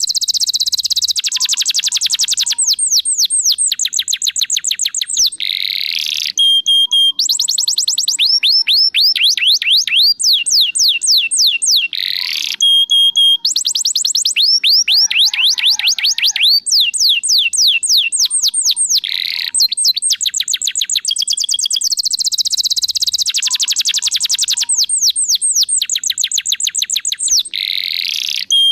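Domestic canary singing a long, loud song of fast trills. Each run of quick downward-sweeping notes gives way to the next, with a few brief breaks.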